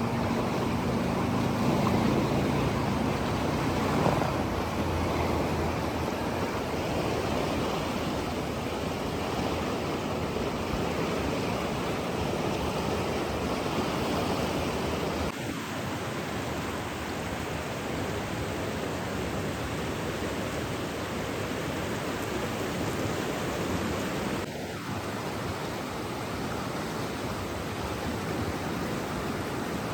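Steady rushing water, an even hiss like a stream or waterfall. A low hum fades out in the first few seconds, and two brief falling tones come about halfway and about three quarters in.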